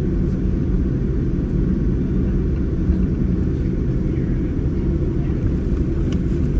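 Cabin noise inside a Boeing 787-9 during takeoff: the jet's engines and airframe make a loud, steady low rumble.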